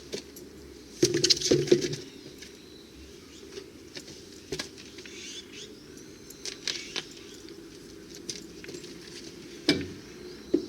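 Irregular metallic clinks and knocks of tools and metal parts being handled, with a louder cluster about a second in and another near the end.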